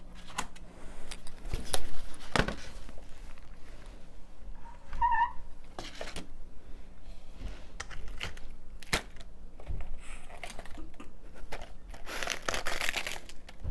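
Lettuce leaves being torn by hand and put onto a plate on a kitchen scale: scattered light clicks and taps, with a longer crinkling tear near the end.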